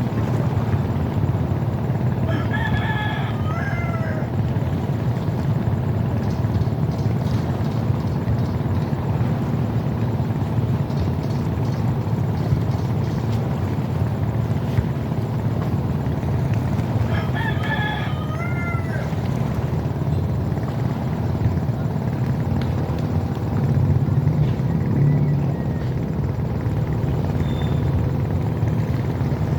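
Rooster crowing twice, about three seconds in and again around eighteen seconds in, over a steady low rumble.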